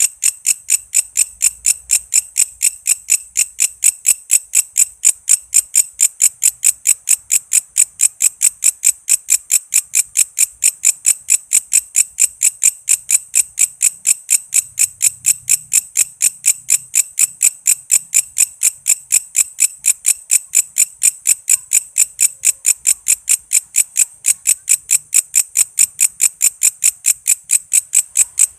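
Walang kece insect singing: an unbroken, even series of sharp, high chirping pulses, about four a second.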